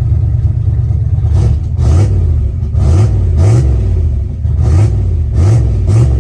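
Turbocharged 383 stroker small-block Ford V8 in a Fox-body Mustang running loud and lumpy. Its pitch swoops up briefly every half second to a second, like quick throttle blips.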